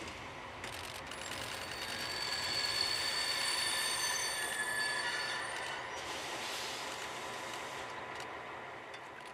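Train passing on the track, its wheels squealing against the rails as it goes by. The sound swells and then fades away.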